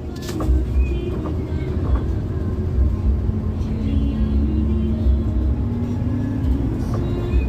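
Inside a moving bus: a steady low rumble of engine and road, with music playing over it from the cabin's sound system.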